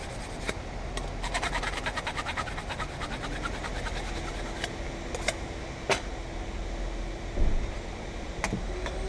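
A steady fan-like background hum, with a quick run of small metallic clicks about a second in and a few separate sharp clicks after it.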